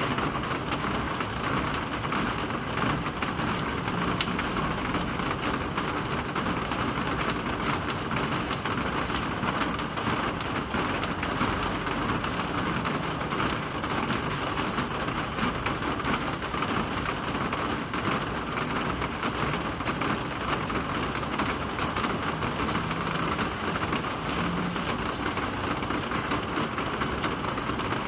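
Steady rain falling, an even dense hiss of drops that holds constant throughout.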